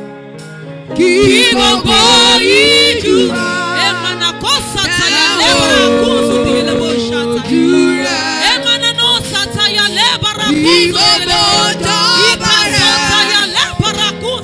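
Gospel worship music: singing with heavy vibrato over sustained held chords, the voice coming in loudly about a second in.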